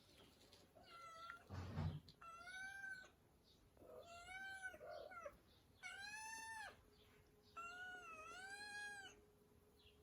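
A cat meowing: five drawn-out, rising-and-falling calls, each under a second to a second and a half long, with a short dull thump near two seconds in.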